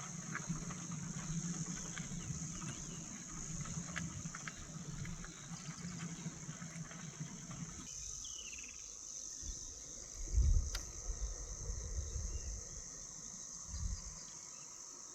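Steady high-pitched chorus of insects calling in the bush. For the first half a low hum runs underneath; after a change about halfway through, two low thumps come near the end.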